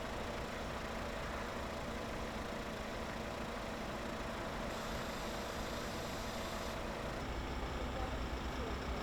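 A vehicle engine idling steadily: a low, even rumble with a faint steady tone over it.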